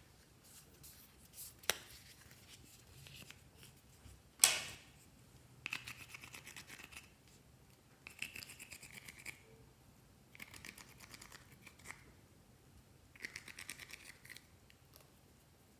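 Glossy slime worked by hand, pressed and stretched in four bursts of quick, fine crackling clicks as small air pockets pop. One sharp click comes about four seconds in, before the bursts begin.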